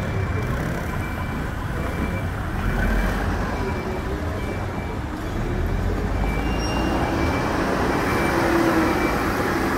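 Hidromek 102S backhoe loader's diesel engine running and working, swelling louder at times, with a reversing alarm beeping steadily over it.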